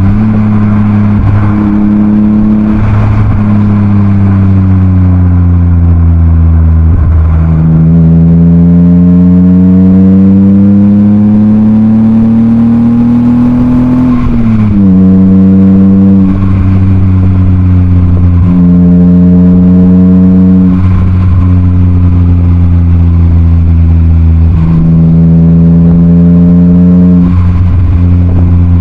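BMW E36 328i's M52B28 2.8-litre straight-six, heard through a Schmiedmann aftermarket rear silencer, pulling through the gears. The revs climb and drop at each shift, with one long rising pull that falls off sharply about halfway through. The car then runs at fairly steady revs, with brief dips every few seconds.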